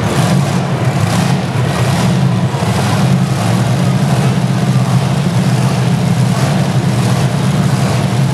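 Monster truck engines running loud and steady at high revs as two trucks race.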